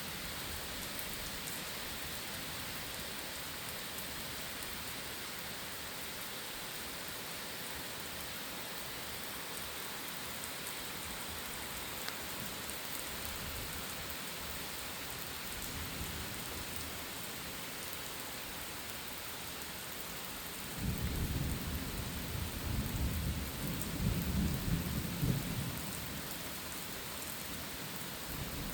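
Steady rain falling, with a roll of thunder that comes in suddenly about three-quarters of the way through, rumbles low for a few seconds and fades.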